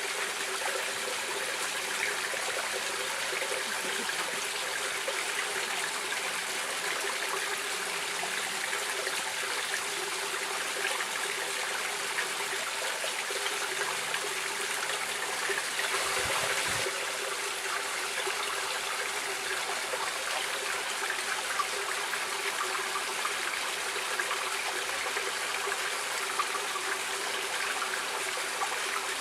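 Stream water flowing and trickling steadily, with a brief louder swell and a low bump about halfway through.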